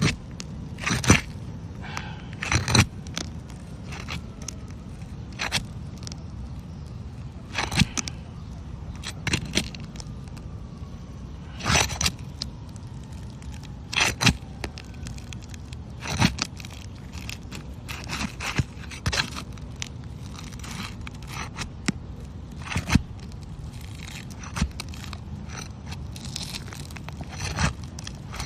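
Asphalt shingles being worked loose with a flat roofing pry bar (a snake tool): short, irregular scrapes and crunches every second or two as the tool breaks the shingles' sealant bond.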